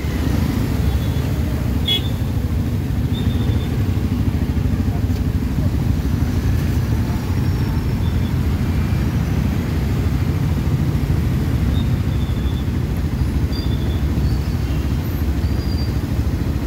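Motorcycle riding in city traffic: a steady low rumble of engine and road noise, with a few faint, short high beeps now and then.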